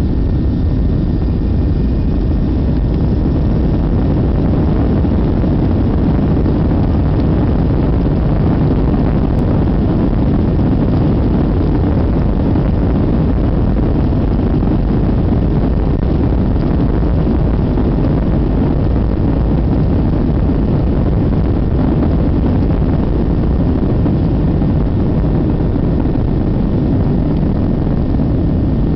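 Boeing 737 jet engines at takeoff power heard from inside the passenger cabin: a loud, steady, low-heavy rush of engine and airflow noise with a faint steady high whine.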